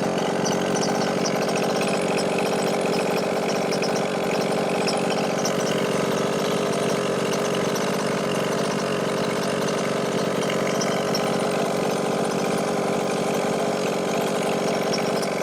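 Chung Yang 29cc two-stroke engine of a 1/5 scale RC truck idling steadily during break-in, set very rich. Oil is being pushed out through an exhaust leak.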